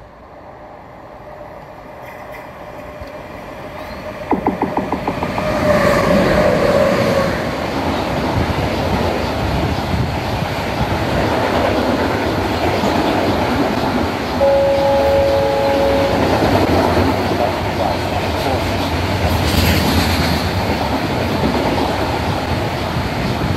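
Bulk-goods train of loaded hopper wagons, hauled by two Vectron electric locomotives, approaching and running through at speed. The sound builds steadily, then a quick run of wheel knocks about four seconds in marks the front of the train arriving. After that the wagons roll past with a steady heavy rumble and clickety-clack over the rail joints, with a brief ringing tone about halfway through.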